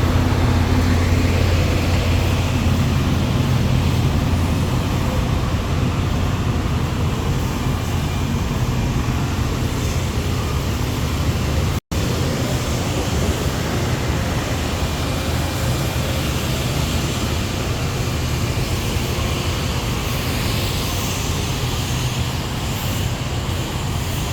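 Semi-truck's diesel engine running with a steady low drone, heard from inside the cab, with road and air noise over it. The sound cuts out briefly about halfway through, at an edit, then carries on the same.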